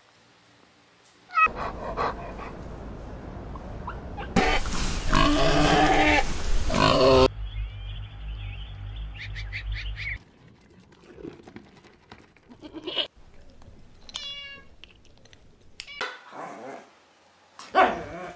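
A series of animal calls, one kind after another. The loudest run comes from about a second and a half in until about ten seconds in; after that come shorter, quieter calls, a quick run of short high calls about fourteen seconds in, and another loud call near the end.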